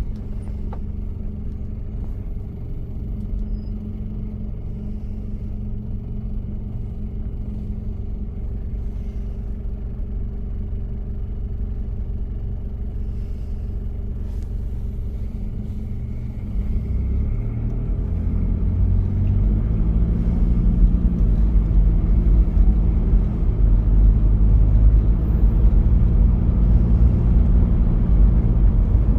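1993 Toyota Prado's diesel engine running while the vehicle is driven: a steady rumble that grows louder and deeper about halfway through and stays that way.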